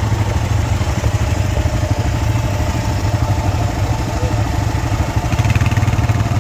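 Motorcycle engine running steadily while riding at low speed, with an even, rapid pulsing from the engine.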